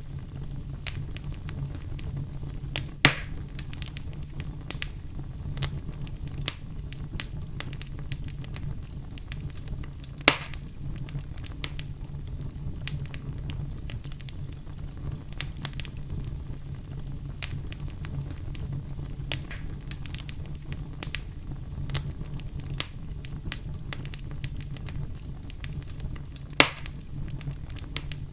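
Wood fire burning in a fireplace: a steady low rumble with frequent small crackles, and three louder sharp pops about 3, 10 and 26 seconds in.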